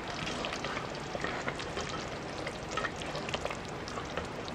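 Spaghetti and meat sauce sizzling in a Presto electric kettle as it is stirred, a steady hiss scattered with small pops and clicks.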